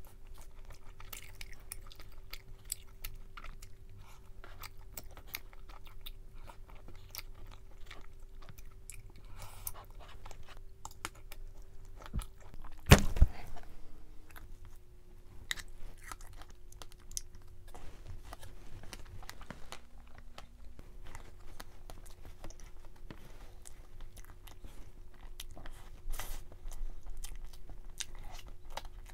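A person chewing and biting crunchy food close to the microphone, with many small crackles. A single loud thump comes about halfway through.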